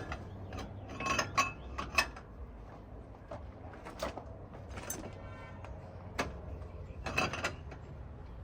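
Hand tools and metal parts clinking and knocking on a semi-truck wheel hub during a wheel seal job, in scattered sharp strikes, with a short run of rapid clicks about five seconds in.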